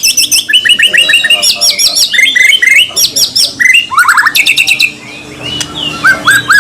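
White-rumped shama (murai batu) singing a fast, shrill song: rapid runs of repeated sliding notes, with a brief lull about five seconds in.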